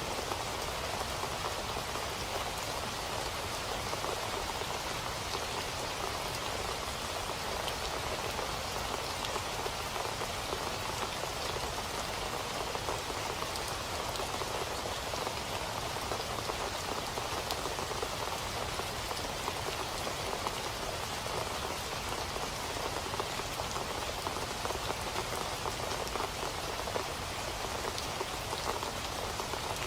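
Steady rain falling on a surface, an even patter of many drops.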